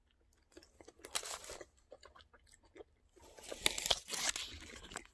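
A person biting into and chewing an Impossible Whopper close to the microphone: crunchy, wet chewing noises in two spells, about a second in and again from about three to four and a half seconds in.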